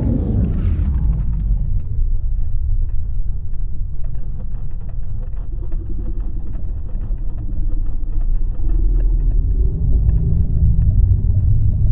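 Mirage 2000D jet engine rumbling past, the pitch falling away in the first second or two, then a steady deep rumble that grows a little louder near the end.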